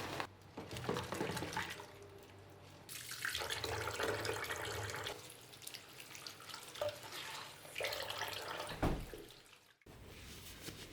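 Water running from a tap into a sink in several spells, stopping and starting, with a louder splash near the end before it stops sharply.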